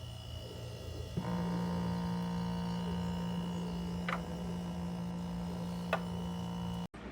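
YSSOA 4L portable mini fridge running with a steady electrical hum that switches on with a click about a second in. Two light clicks follow, and the hum cuts off suddenly near the end.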